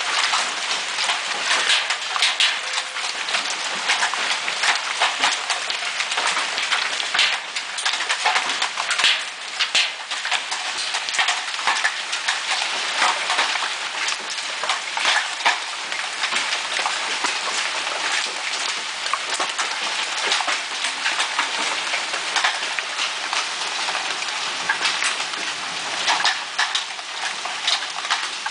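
Hailstones pelting down in a hail storm: a dense, steady patter of many small impacts with sharper, louder hits scattered through.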